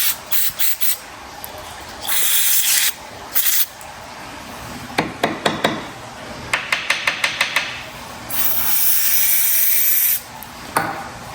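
Aerosol brake cleaner sprayed in short hissing bursts, with one longer spray near the end, to flush gunk out of a pressure-washer part. Between the sprays comes a quick run of clicks and taps, about six a second.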